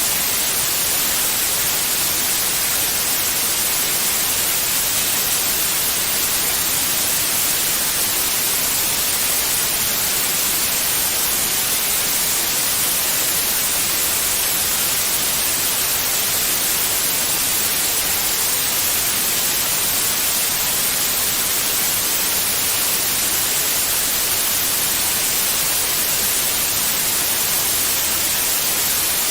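Steady white noise: an even, unbroken hiss, strongest in the high frequencies, with no change in level.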